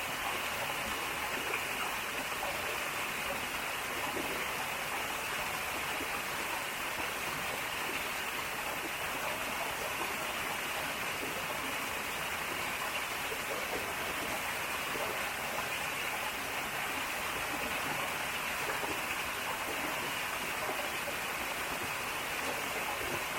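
Mountain stream rushing over rocks, a steady even splash of water.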